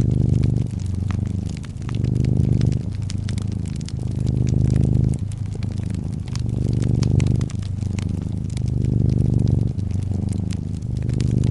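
Domestic cat purring close up, a loud low rumble that swells and eases with each breath about once a second, with a wood fire crackling in scattered small pops.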